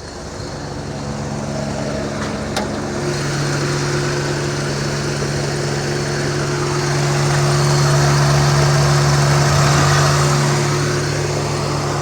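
Suzuki Mehran VXR's small three-cylinder petrol engine idling steadily. A click comes about two and a half seconds in, after which the engine note and a broad hissing noise grow louder.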